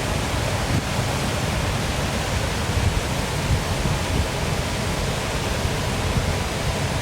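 Waterfall running steadily: an even rushing of falling water with a strong low rumble.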